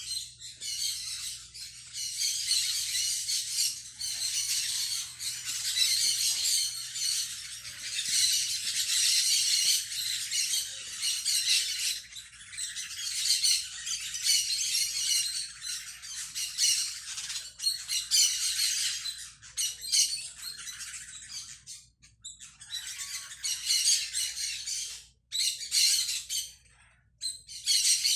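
Birds chattering and chirping continuously in high, dense runs, with short pauses that become more frequent in the last third.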